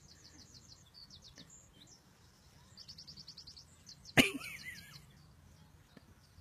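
Small birds chirping in quick high trills, in three short runs. About four seconds in comes one loud, sharp thump.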